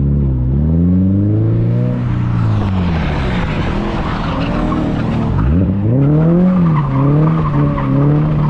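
2022+ Toyota GR86's 2.4-litre flat-four engine heard from inside the cabin, revving up and down under throttle, with its tyres squealing and skidding in the middle of the stretch and again near the end.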